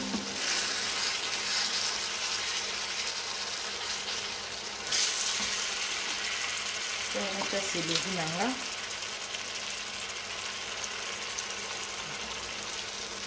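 Food frying and sizzling in a pan, a steady hiss that suddenly grows louder about five seconds in. A brief voice is heard about eight seconds in.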